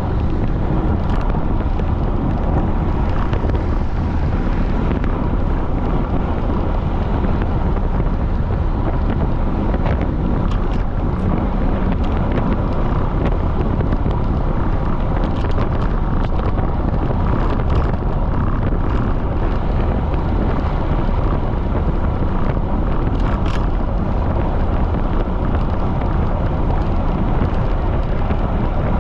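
Strong wind buffeting the microphone of a camera riding along on a fast-moving bicycle: a loud, steady low rush with no letup.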